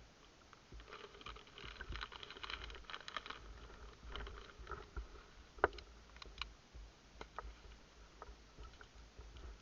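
A small plastic packet being handled and picked open: a flurry of crinkly rustling and fine ticks in the first few seconds, then scattered small clicks, with one sharp click just past the middle.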